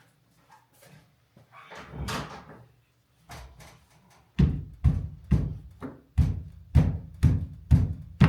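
A series of heavy knocks, about two a second, beginning a little after four seconds in, with a softer scuffing noise around two seconds in.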